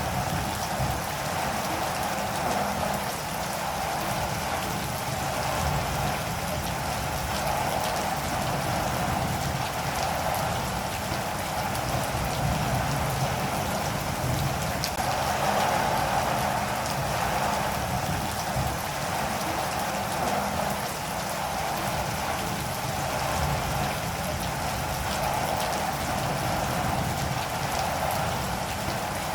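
Steady rain falling, with the patter of drops on a surface, unbroken throughout.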